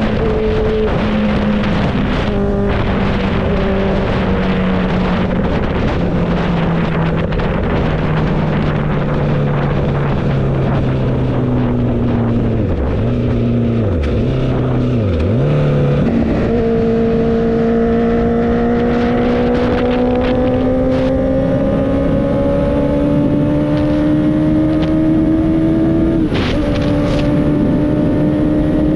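Motorcycle engine running while riding: its pitch steps down several times in the first half, dips sharply twice, then climbs steadily for about ten seconds before dropping near the end.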